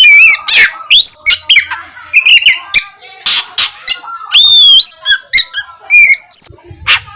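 Oriental magpie-robin (kacer) singing a fast, varied song: clear whistles sliding up and down, broken by short harsh rasping notes, loud throughout.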